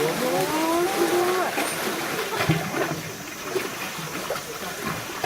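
Water splashing and sloshing in a pool, with people's voices, most noticeably in the first second and a half.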